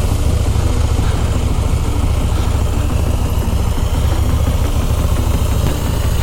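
KTM Duke motorcycle engine running at low, steady revs, a deep, even engine sound.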